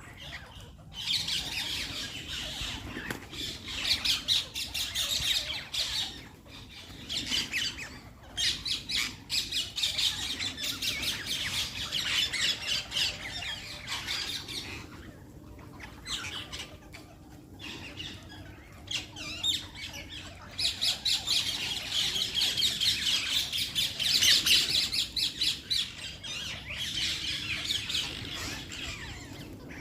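Parrot squawking and chattering in long bouts of rapid, harsh calls, with brief pauses between bouts.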